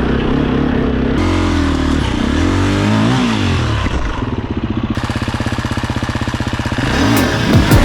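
Enduro dirt bike engine under riding, the pitch falling as the throttle closes, holding steady, then revving up sharply near the end.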